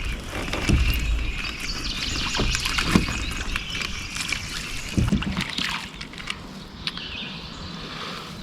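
Light water splashing and knocks around a kayak, with short clicks throughout and birds chirping faintly.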